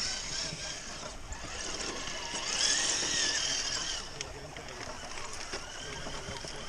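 Whine of a radio-controlled crawler truck's electric motor and gears, rising in pitch and then falling away through the middle, over a steady hiss.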